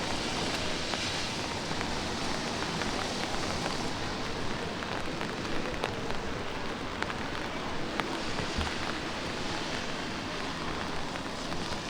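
Light rain falling on a city street: a steady hiss with scattered, irregular ticks of drops.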